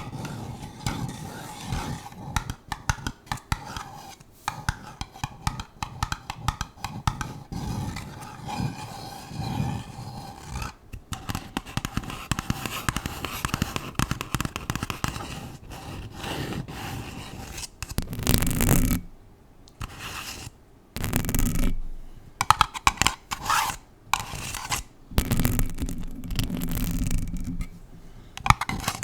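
Long acrylic nails scratching a paper cup and a bare Blue Yeti microphone, close up. The scratching is fast and dense at first, then turns into louder, separate strokes with short pauses in the second half.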